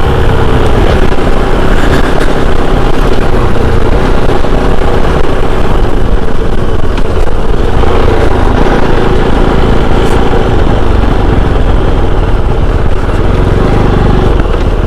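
Kove 450 Rally's single-cylinder engine running steadily while riding, with a heavy low rush of wind noise.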